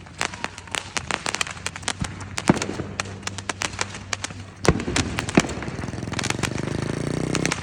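Roman candles firing, a rapid string of sharp pops and bangs. A small pit bike engine runs underneath and revs up near the end.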